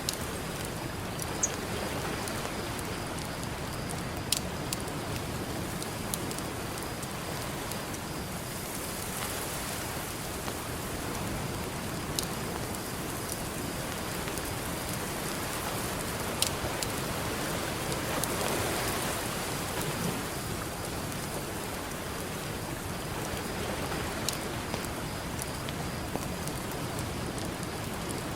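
Campfire crackling, with scattered sharp pops, over a steady wash of ocean surf.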